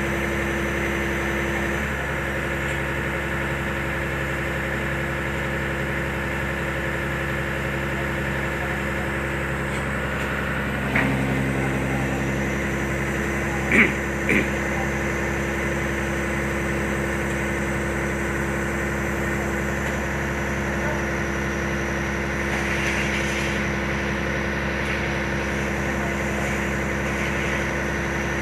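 Concrete pump truck's engine running steadily, with a brief sharp knock about a third of the way in and two short sharp knocks close together near the middle.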